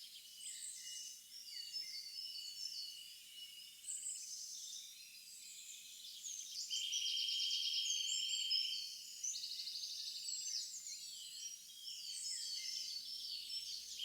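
Nature-sounds ambience of many small birds chirping and twittering in quick high notes and trills. A steady, high pulsing trill comes in for about two seconds around the middle.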